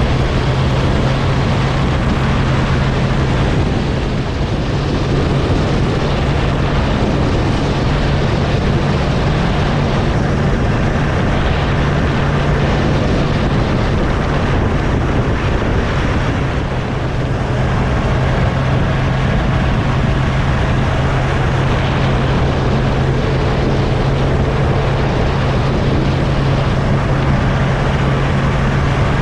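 Kawasaki Z1000SX inline-four engine running steadily at cruising speed, with wind noise on the microphone.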